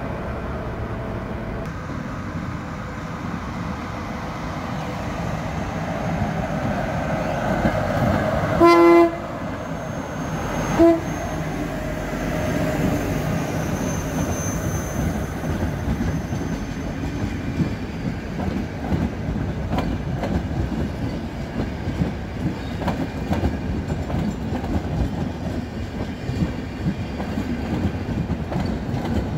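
Train passing close by, its horn sounding one short blast about nine seconds in and a brief second toot two seconds later, followed by the steady rumble and clatter of wheels over the rails.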